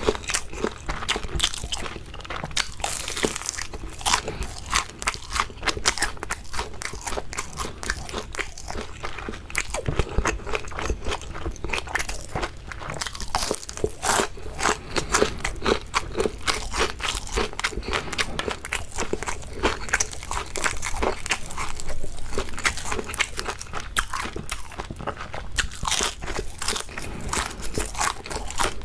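Crispy fried shrimp being bitten and chewed close to the microphone: a steady run of loud, crackly crunches.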